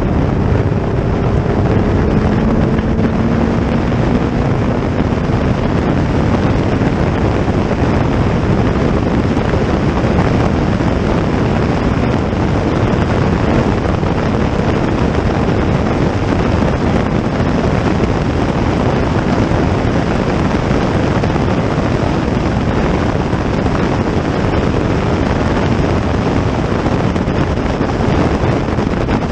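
Racing car engine under heavy wind rumble on the microphone. An engine note climbs slowly in pitch over the first few seconds, then a steady, loud rushing noise carries on.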